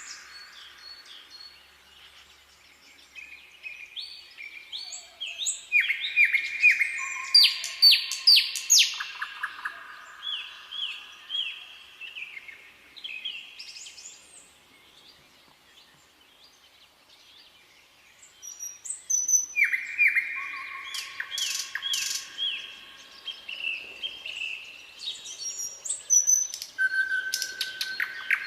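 Several songbirds singing, with series of short, clear, downward-sliding whistled notes, busiest in two spells with a quieter lull around the middle.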